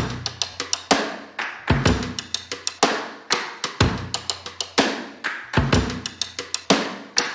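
Background music: a drum kit playing a steady beat on its own, kick and snare with quick cymbal hits between.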